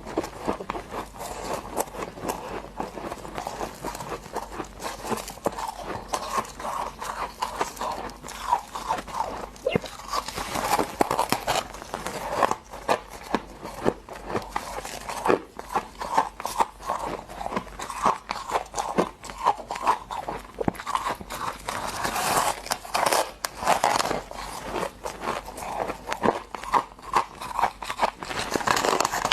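A person biting and chewing freezer frost: hard crunches follow one another throughout, with louder, crackly runs of bites about a third of the way in and again toward the end.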